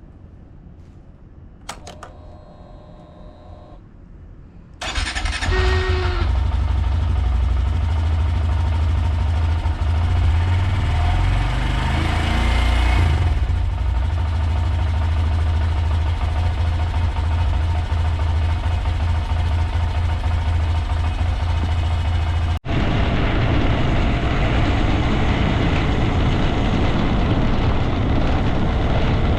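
Honda Grom 125's single-cylinder engine starting about five seconds in and then running steadily. It drops out abruptly for a moment near the end and carries on.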